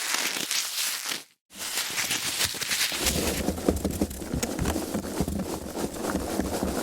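Foam packaging being handled: dense crackling, rubbing and crinkling, broken by a short silent gap about a second and a half in. From about three seconds in, a low rumble of handling runs beneath it.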